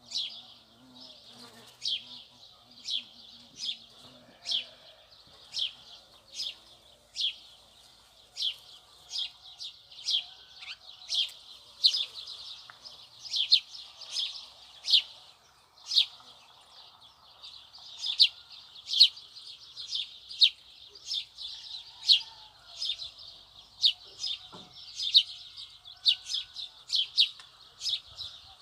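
A bird chirping over and over: short, sharp, high chirps, about one or two a second, with fainter chirping in the background.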